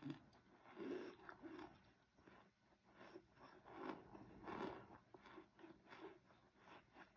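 Someone chewing a mouthful of toasted cornstarch powder: soft small crunches and mouth sounds, about two a second.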